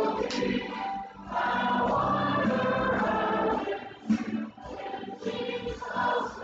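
A group of voices singing a church hymn together with instrumental accompaniment, with a long held chord about a second and a half in.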